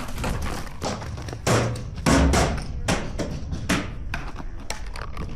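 Irregular sharp knocks and pops, several a second, over wind buffeting the microphone, with a louder stretch about two seconds in.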